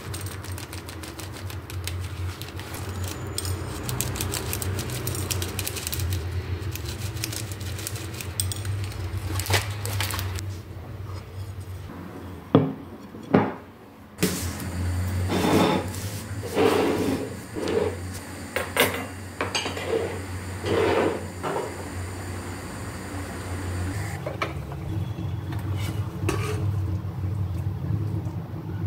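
Hard objects clattering and clinking over a low steady hum, with two loud knocks about halfway through, followed by a run of short ringing clinks.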